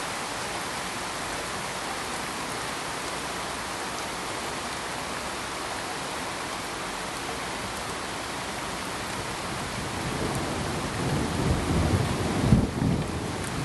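Steady pink noise hiss, even and unbroken. About ten seconds in a deep rumble swells up under it, loudest shortly before the end.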